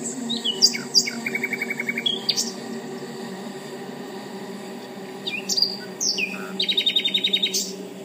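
A songbird singing two phrases, each a few quick slurred notes ending in a fast trill, the second phrase higher-pitched than the first, over a steady low hum.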